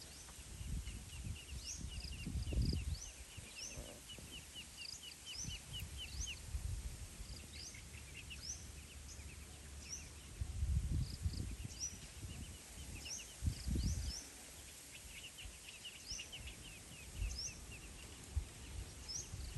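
Small birds chirping throughout: quick runs of short high notes mixed with single rising peeps. Irregular low rumbles, like wind on the microphone, come and go, strongest about three seconds in and around eleven and fourteen seconds.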